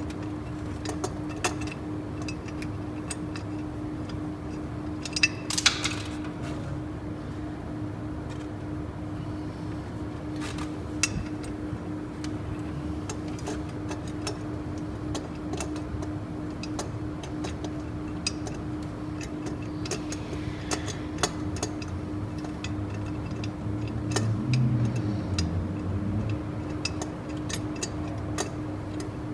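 Scattered sharp metallic clicks and clinks of hand tools on car engine parts, over a steady hum and a low rumble.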